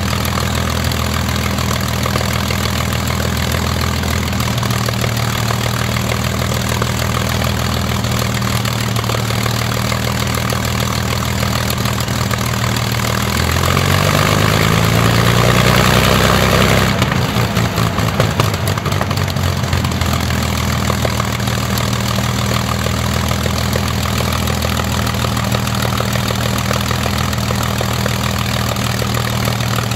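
Rolls-Royce Merlin V12 aero engine running steadily on a ground test run, propeller in fine pitch. About halfway through it is briefly revved, the pitch rising for a few seconds, then the throttle is closed and it drops back to its steady running with a few crackles.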